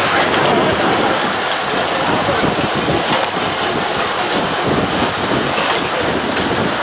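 A fire tanker truck's engine running steadily under a loud, even rushing noise.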